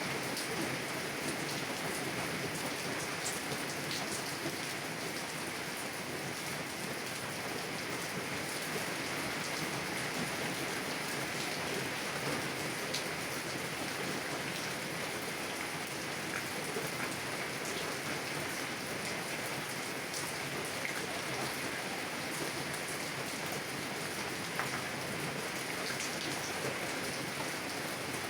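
Heavy rain falling on a car window, heard from inside the car: a steady hiss of rain with dense small ticks of individual drops hitting the glass.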